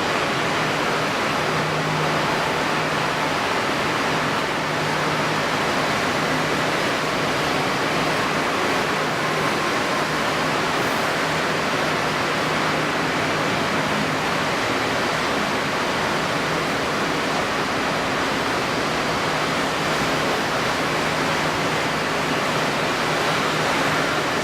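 Steady rushing of strong wind and wind-stirred water, even throughout, with a faint low hum that fades in and out.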